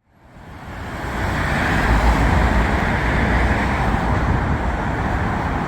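Steady road traffic noise, a constant rumble of passing vehicles, fading in over the first second.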